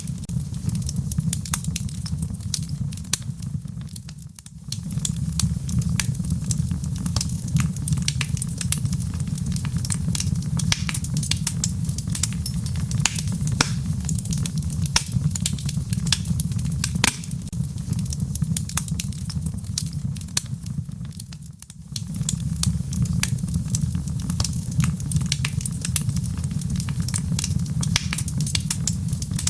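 Fireplace wood fire crackling: a steady low rumble of flame with many small sharp pops and snaps. The sound briefly drops away twice, about four seconds in and again just past twenty seconds.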